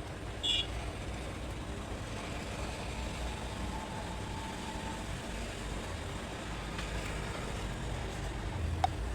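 Steady low background rumble, like road traffic outside, with a short high chirp about half a second in and a sharp click near the end.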